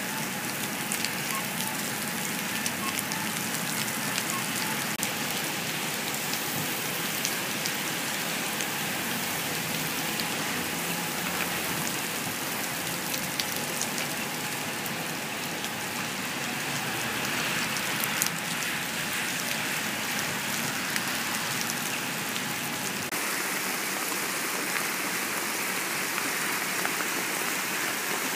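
Heavy rain falling steadily, a dense hiss scattered with sharp drop ticks. A low rumble under the rain falls away about two-thirds of the way through while the rain carries on.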